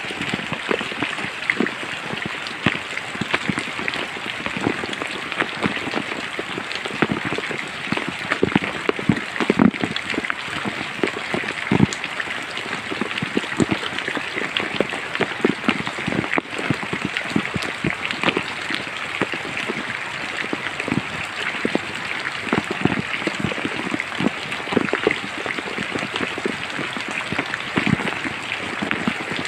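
Steady rain falling through forest, a dense hiss with many close, irregular drops striking leaves and surfaces.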